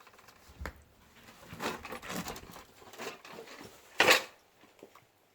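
Dishes and utensils clattering, with one louder sharp clatter about four seconds in.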